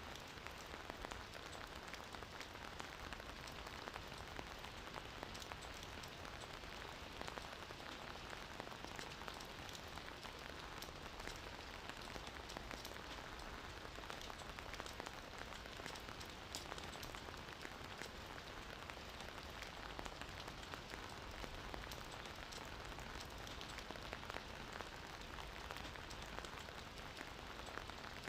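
Gentle rain falling steadily, with a patter of individual drops on a surface.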